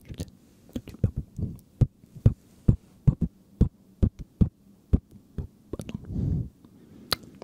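Irregular soft, low thumps and taps very close to the microphone, about two a second, with a brief low rumble a little before the end.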